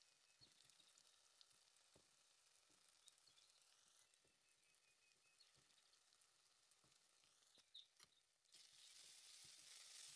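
Onion-tomato masala frying faintly in a pan, a soft sizzle with scattered small crackles. About eight and a half seconds in, the sizzle becomes louder as the masala is stirred.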